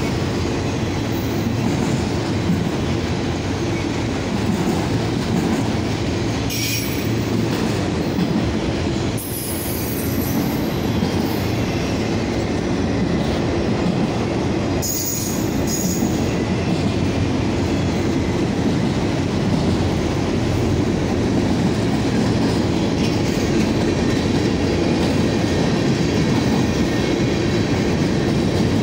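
Freight train cars, autoracks then tank cars and hoppers, rolling steadily past with a constant rumble of steel wheels on rail. Brief high-pitched wheel squeals come through a few times.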